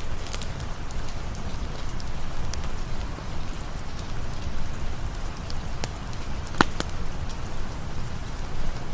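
Steady rain ambience, with scattered sharp pops and ticks throughout and one louder pop about two-thirds of the way through.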